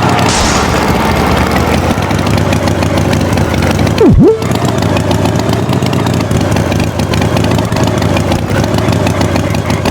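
Tractor engine running steadily, with one sudden loud swoop down and back up in pitch about four seconds in.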